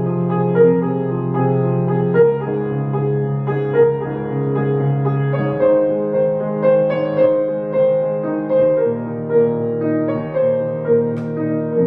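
Solo piano music: notes struck at a steady, moderate pace over held bass notes.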